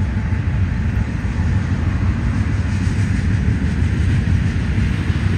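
Union Pacific freight train of tank cars rolling past, a steady low rumble of steel wheels on the rails.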